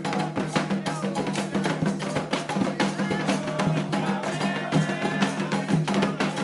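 Candomblé ritual percussion: hand drums (atabaques) played in a fast, dense rhythm of strikes, with a steady low hum beneath.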